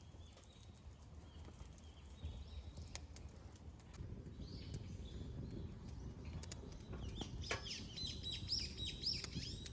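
Wild birds calling, faint at first, then a quick run of high chirps and short sweeping notes for the last few seconds.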